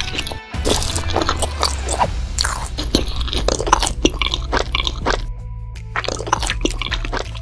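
Crunchy eating sounds, quick bites and chewing strikes, over steady background music; the crunching thins out about five seconds in.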